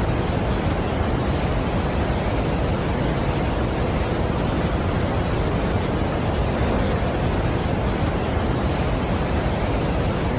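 Steady, unbroken rushing of Niagara Falls' water, an even wash of noise heaviest in the low end.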